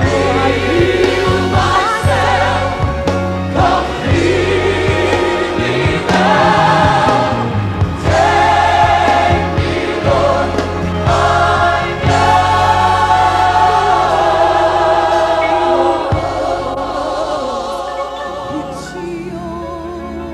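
Gospel choir singing with a steady instrumental backing; the music grows softer over the last few seconds.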